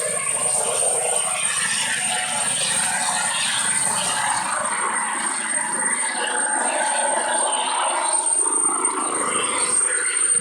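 Eurocopter EC135 helicopter running: a steady rush of rotor and turbine noise with a thin high whine over it.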